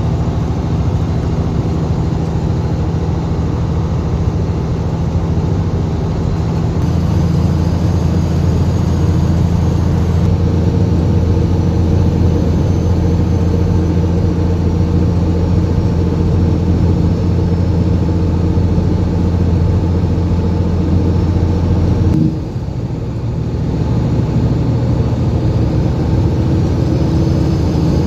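Semi-truck's diesel engine pulling steadily, heard from inside the cab. The engine note strengthens a few seconds in, dips briefly about three-quarters of the way through, then picks back up.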